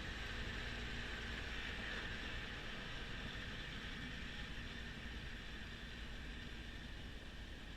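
Kubota B2650 compact tractor and its front-mounted snowblower running steadily, a constant low rumble under an even hiss.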